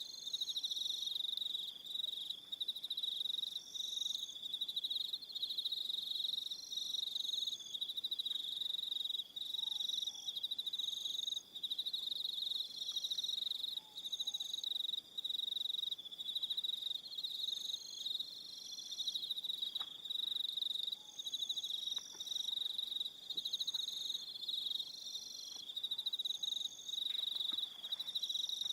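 Crickets trilling in a steady, high, dense chorus, with shorter higher chirps repeating every second or two above it and a few faint clicks near the end.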